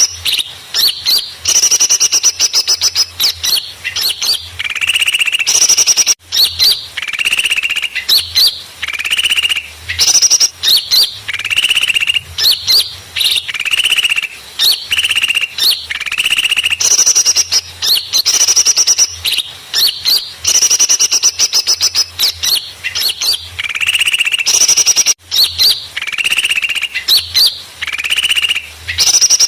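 Recorded chorus of small birds chirping and trilling loudly and busily, used as a bird-trapping lure call. The same sequence of calls repeats as a loop, with a brief break about six seconds in and again near the end.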